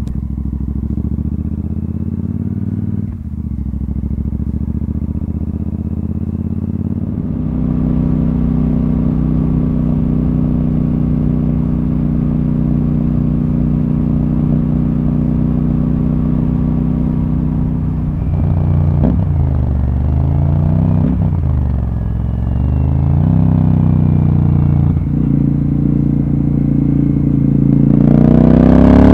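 Royal Enfield Super Meteor 650's parallel-twin engine running under way at a steady note, growing louder about seven seconds in. In the second half the engine note dips and climbs again a few times, and near the end it revs up steeply as the bike accelerates.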